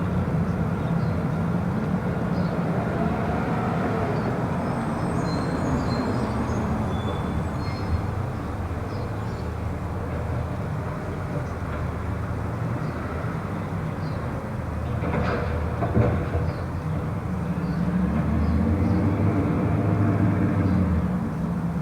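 Garbage truck's engine running with a steady rumble that swells near the end, with one sharp knock about sixteen seconds in.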